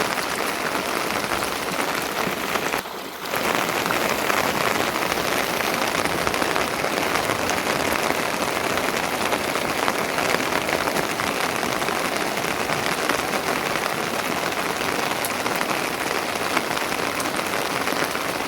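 Steady rain falling on a surface, a dense even patter of drops that briefly thins about three seconds in.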